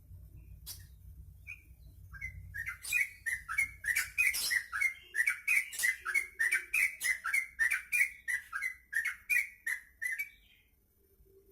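Yellow-vented bulbul singing a fast, even run of short chattering notes, about four a second, starting about two seconds in and stopping near the end.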